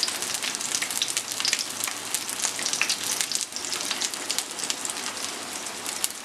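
Oil sizzling and crackling in a frying pan as a chicken kabab patty shallow-fries, a dense, steady spatter of fine pops.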